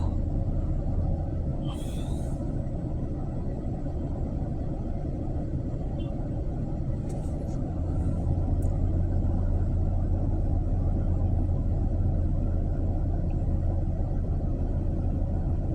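Steady low rumble of an idling vehicle engine, with a couple of faint, brief high-pitched sounds about two seconds and seven seconds in.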